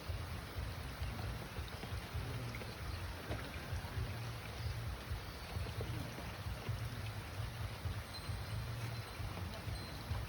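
Steady outdoor ambience of light rain and water, with a fluctuating low rumble underneath and a faint thin high tone near the end.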